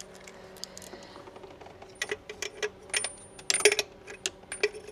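Metal hand tools clicking and clinking in quick, irregular clusters, as a socket and wrench are worked on the engine's oil pressure sending unit in a cramped spot. The clicks start about two seconds in.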